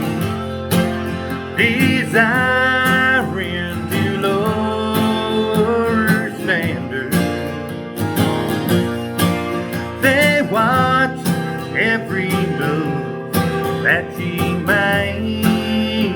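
Country instrumental break: acoustic guitar backing under a lead melody played with sliding, bending notes.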